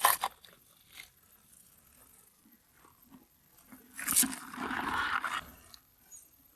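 Crunching and scraping on oyster shells and rock: a sharp knock at the start, a lighter click about a second later, then a loud crack about four seconds in followed by about a second of rough scraping.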